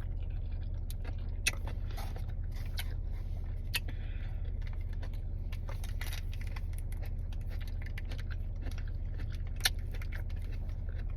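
Steady low hum of a car's idling engine, heard from inside the cabin, with a few sharp clicks and crunches from eating scattered through it.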